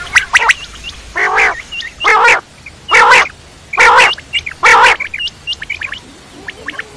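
Quail calling: a few quick high chirps, then five loud, harsh calls evenly spaced about a second apart, followed by scattered short high chirps.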